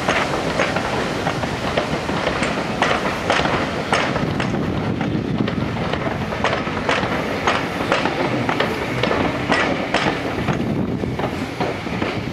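Railway coaches rolling past, their wheels clicking over rail joints about twice a second over a steady rumble. The clicking thins out near the end as the last vehicle clears.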